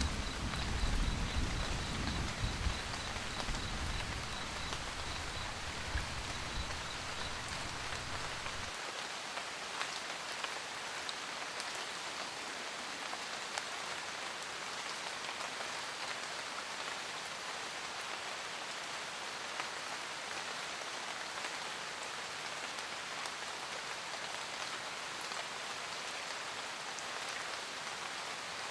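Steady rain falling, with scattered sharp drop ticks. A deep rumble of thunder runs under it for the first nine seconds or so, then stops suddenly.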